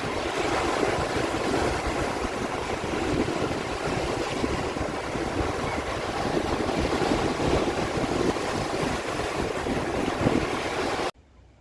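Sea waves and surf washing steadily, with wind buffeting the microphone, until the sound cuts off abruptly about eleven seconds in.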